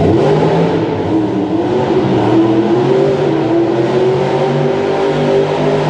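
Monster truck engine revving hard: the pitch climbs right at the start, then is held high with small rises and falls.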